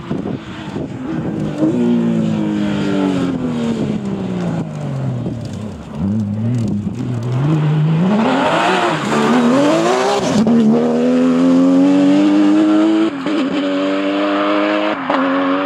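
Porsche rally car engine: the revs fall away over a few seconds, then it accelerates hard, the pitch climbing in steps with short drops at gear changes about two-thirds of the way through and near the end.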